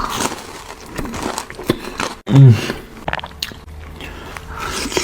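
Close-miked biting and chewing of Wingstop hot honey chicken: scattered wet clicks and smacks of mouth sounds. A brief, loud hummed vocal sound comes about two and a half seconds in.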